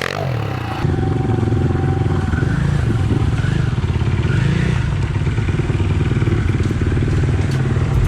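Pit bike engine running, its pitch rising and falling a few times as it is ridden.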